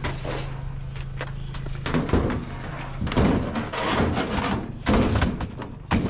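A vehicle engine idles with a steady low hum. From about two seconds in, a run of loud thumps and clunks takes over, like a door shutting and hard objects being knocked about.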